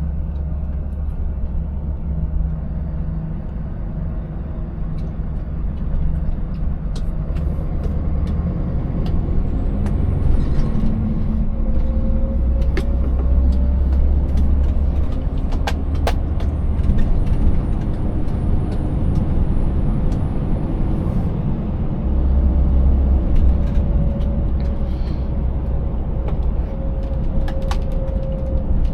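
Scania 590S 16-litre V8 truck engine pulling steadily with a low rumble. Scattered knocks and rattles come from the truck riding over a broken road surface.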